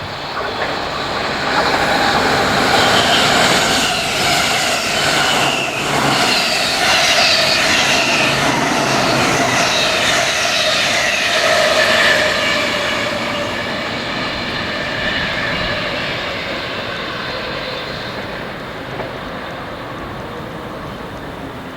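A train passing through the station, its rolling noise mixed with several high whining tones. It swells quickly, stays loud for about ten seconds, then slowly fades away.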